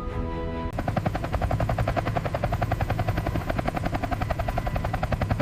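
Music cuts off under a second in, replaced by a loud, steady, rapidly pulsing mechanical beat, several beats a second, over a low hum.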